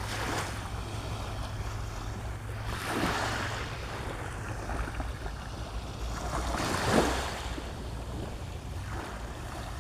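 Surf breaking on a beach in repeated washes, the loudest about seven seconds in, over a steady low rumble of wind on the microphone.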